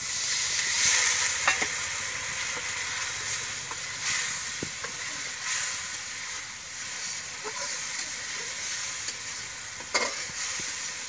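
Water poured into a hot metal karahi of egg masala curry hits the oil and spices and sizzles loudly, then the curry keeps sizzling while a metal ladle stirs it, with a few sharp clinks against the pan.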